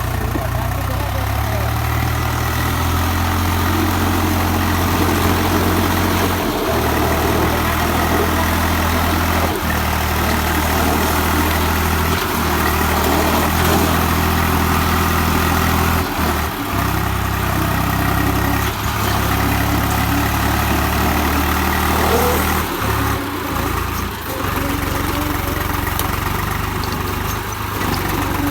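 Swaraj 834 XM tractor's three-cylinder diesel engine running loudly and steadily, its pitch changing several times as the throttle and load vary, while the stone-laden tractor is worked out of a mine.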